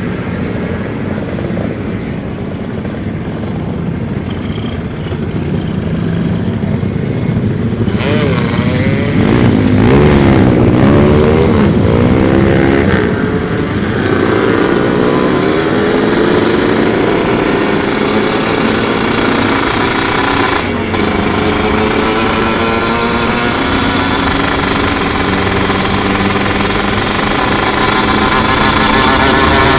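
Two-stroke Kawasaki 150 cc motorcycle engine under way, its note rising and falling several times about a third of the way in, then running fairly steadily and growing louder.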